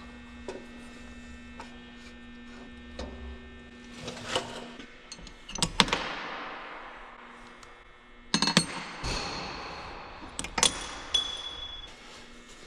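Steel parts of a corn planter row unit clanking as the disc opener is taken apart. There are a handful of sharp metal knocks, the loudest about six and eight and a half seconds in, and each leaves a ringing tone that fades over a second or two.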